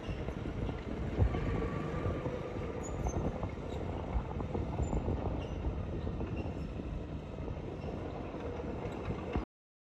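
Bulldozer running steadily while working dirt, a rough mechanical noise that cuts off suddenly near the end.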